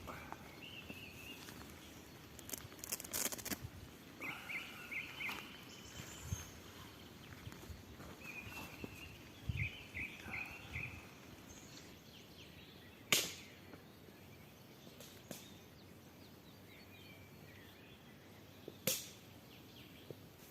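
Small birds chirping in short repeated phrases over quiet woodland ambience. A few sharp clicks cut through, the loudest about two thirds of the way in and another near the end.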